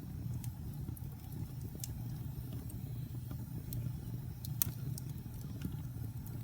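Wood fire burning with a steady low rumble and scattered sharp crackles and pops, the loudest about two-thirds of the way through.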